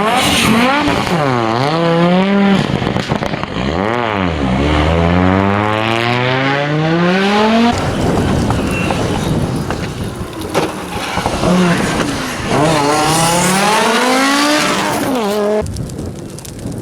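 Audi Quattro S1 rally car at full racing pace, its engine revving hard, climbing in pitch through long pulls and dropping sharply on gear changes and lifts, with a noisier off-throttle stretch in the middle and the sound cutting off suddenly near the end.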